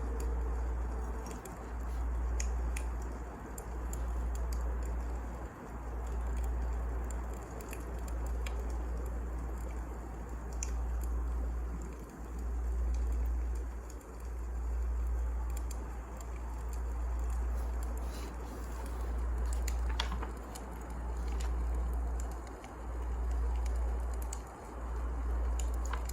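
Wood fire crackling: scattered sharp pops and snaps over a low rumble that swells and dips about every two seconds.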